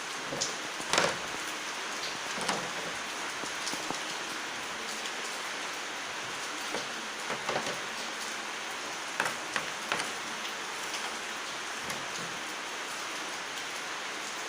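A steady, rain-like hiss with scattered light clicks and taps, the loudest about a second in.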